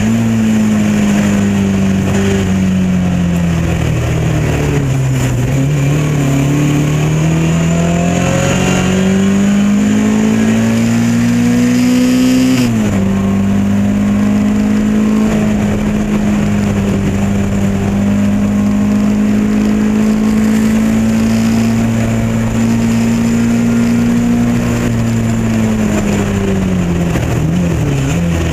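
Lotus Elan race car engine running hard under racing load. The revs drop over the first few seconds, then climb until a quick upshift about twelve seconds in pulls them down sharply. They hold steady and high for a long stretch, then fall again near the end as the car slows.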